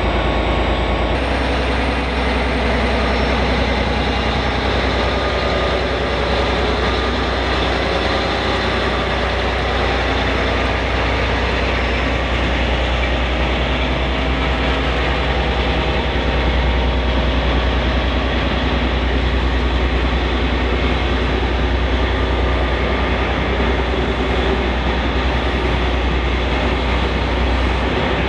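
Class 57 diesel-electric locomotive's EMD V12 two-stroke engine running steadily with a deep low hum.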